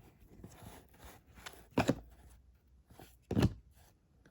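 Baseball trading cards being handled and flipped through, with a soft rustle and two sharper card snaps, one a little under two seconds in and a louder one about three and a half seconds in.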